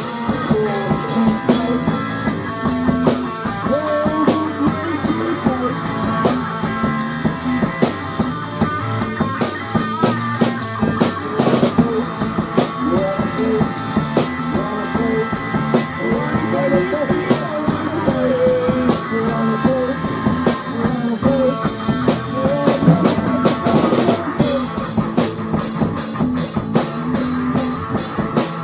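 Rock music with a full drum kit and guitar playing.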